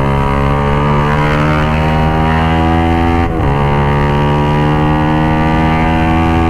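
Suzuki GSX-R150's single-cylinder engine through a full-system aftermarket exhaust, pulling under way with a slowly rising pitch. About three seconds in the pitch briefly dips and drops at an upshift, then climbs again. The exhaust note is raspy and tinny.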